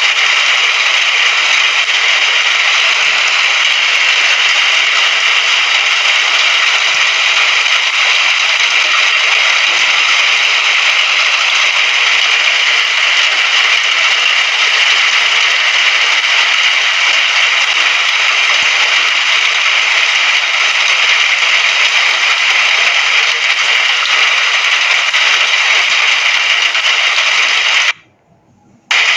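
Steady, dense hiss of rain falling. It cuts out abruptly for about a second near the end, then resumes.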